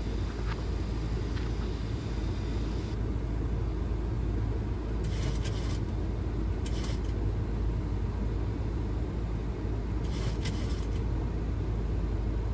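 Steady low rumble of airflow and engines inside a Boeing 737 flight deck during the approach, with a few short hisses near the middle and toward the end.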